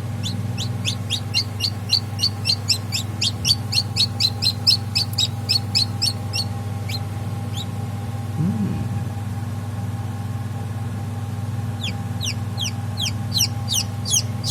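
Newly hatched Kadaknath chick peeping: a fast string of short, high, falling peeps, about five a second. The peeps stop about six seconds in and start again near the end, over a steady low hum.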